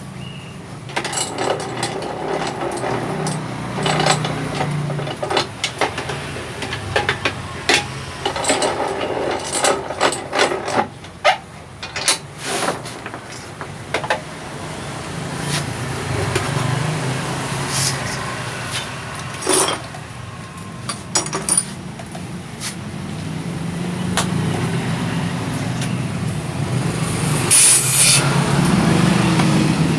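Workshop clatter: metal tools knocking and clinking many times, over a low engine hum that grows louder near the end.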